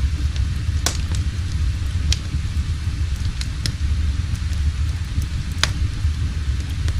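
Wood fire burning in a fireplace: a steady low roar with irregular sharp crackles and pops, the loudest about a second in and again near the end.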